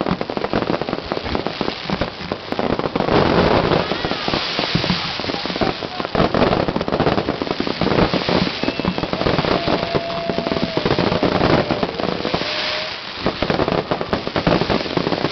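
Fireworks going off in a dense, continuous crackle of many rapid small cracks, like strings of firecrackers. A thin steady tone runs through the crackle for a few seconds in the second half.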